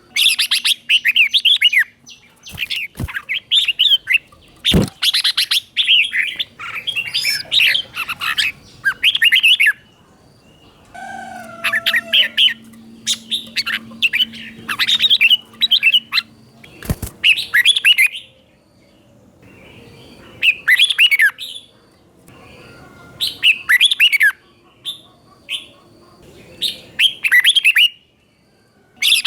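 Red-whiskered bulbul singing: quick, bright warbled phrases of a second or two each, repeated with short pauses between them. A few sharp clicks stand out among the phrases.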